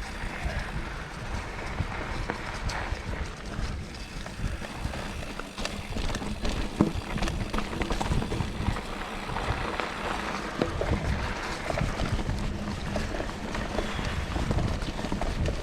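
Mountain bike riding over a rough dirt trail: tyres rolling and crunching, with the bike rattling and knocking over bumps. Wind rumbles on the microphone.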